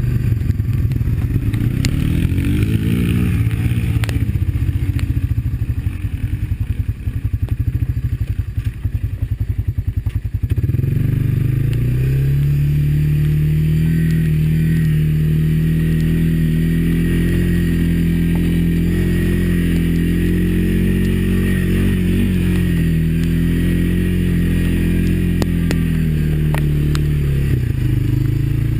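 Single-cylinder four-stroke ATV engine running at low, uneven revs for about ten seconds. It then picks up to a steady, higher speed and holds there until it drops back near the end.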